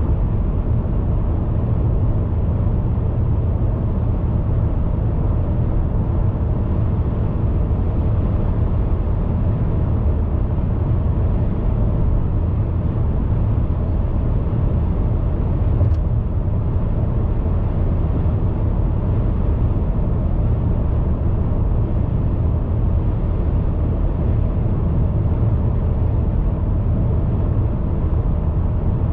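Steady road noise of a car being driven: an even, deep rumble with little high end.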